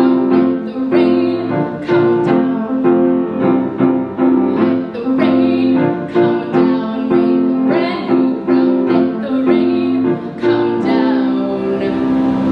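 Piano playing steady repeated chords, with a woman singing over it.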